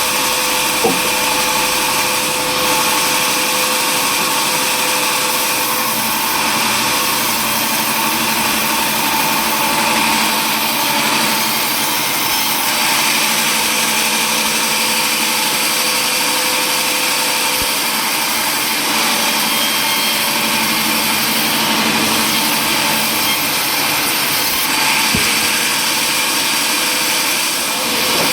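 Power saw running steadily while cutting wood, a continuous loud machine noise with a constant whine and no letup.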